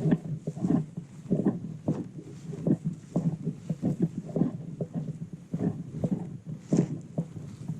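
Bird dog panting hard and fast, about three or four breaths a second, close to the microphone: a dog working in the heat.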